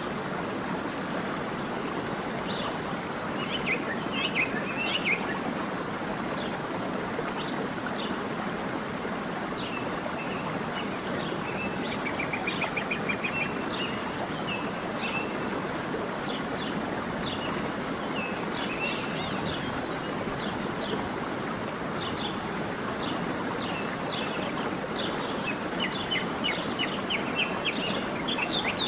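A stream running steadily, with small birds chirping over it in short high calls that come in scattered bursts, a quick trill about twelve seconds in and a busier run of chirps near the end.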